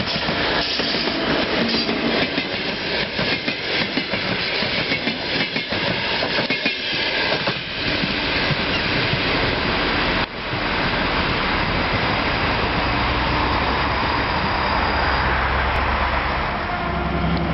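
A diesel-hauled passenger train passing close by, its wheels clattering over the rail joints as the coaches go past. After a cut about ten seconds in, a steadier rumble of a train running further off.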